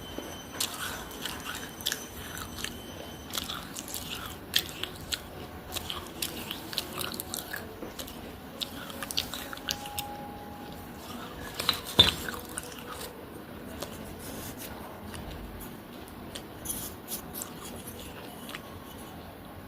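Close-up biting and chewing of dry baked-clay diya (earthen lamp) pieces: irregular sharp crunches, the loudest about twelve seconds in.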